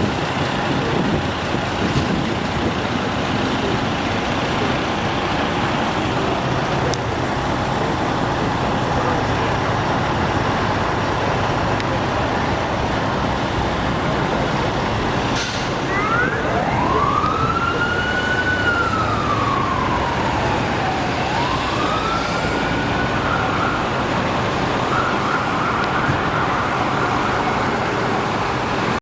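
Steady street noise of traffic and heavy engines. About halfway through, an emergency vehicle siren starts, wailing up and down in slow sweeps, then holds a steady tone near the end.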